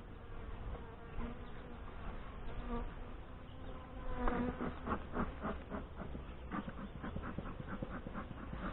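Saskatraz honey bees buzzing steadily around an opened hive during a frame inspection. From about four seconds in, a quick series of short repeated sounds, about three a second, joins the buzz.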